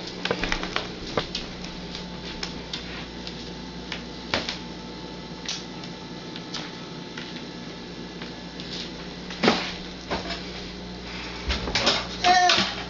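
Scattered small clicks and taps of a toddler handling dry cereal pieces and their container, with a louder knock about two-thirds of the way in and a short high child's vocal sound near the end.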